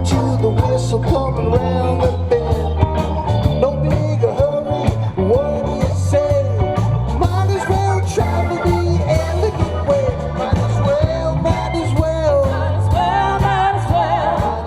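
Live rock band playing an instrumental passage: a lead line of bending notes over steady bass and drums.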